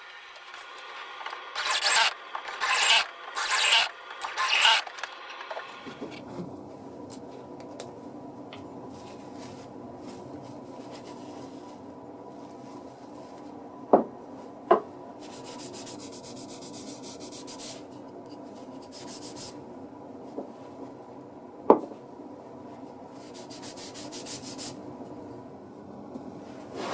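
Four loud abrasive strokes rubbing across wood, like hand sanding or filing, about two to five seconds in. After them comes a steady low background with a few sharp light knocks and some fainter rubbing.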